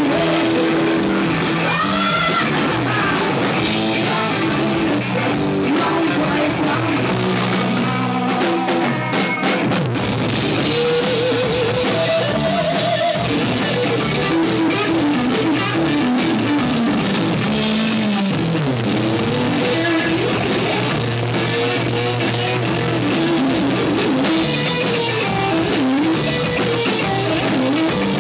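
Rock band playing: electric guitar and drum kit with a singing voice, loud and continuous.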